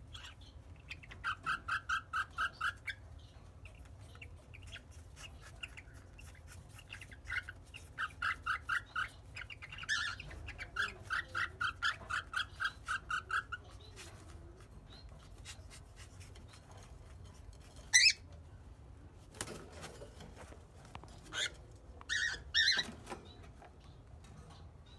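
Cockatiel singing in runs of fast, evenly repeated whistled notes, about five a second. One sharp loud call comes partway through, and a few louder calls near the end.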